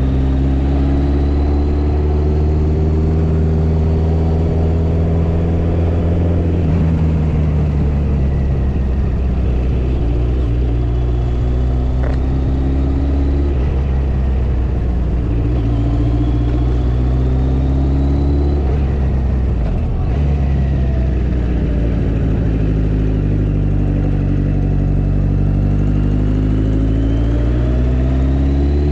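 Motorcycle engine running under way, its pitch slowly climbing with speed and dropping back several times as the rider shifts gears and eases off the throttle.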